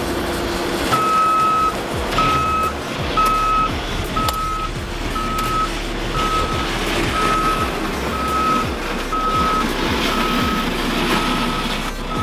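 Vehicle backup alarm beeping about once a second, over the rumble of a running engine.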